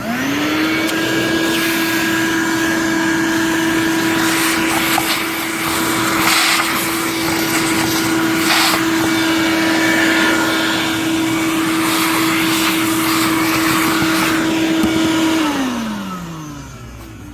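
Vacuum cleaner switched on and spinning up to a steady motor whine, running while it sucks up debris, with a couple of brief louder rushes in the middle. About fifteen seconds in it is switched off and the whine falls in pitch as the motor winds down.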